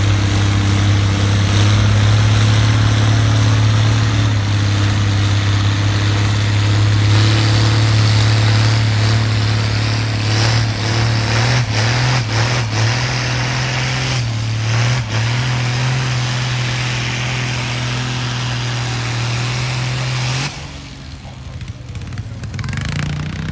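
Farm tractor engine running hard under load as it pulls a weight sled, holding a steady pitch for about twenty seconds with a few sharp knocks partway through, then dropping off abruptly near the end as the pull finishes.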